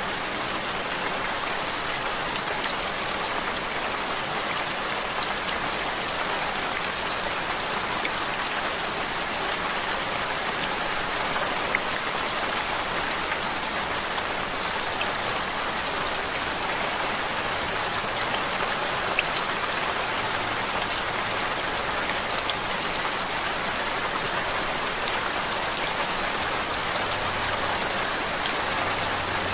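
Steady rain falling on a surface: an even hiss with many small drop ticks, unchanging throughout.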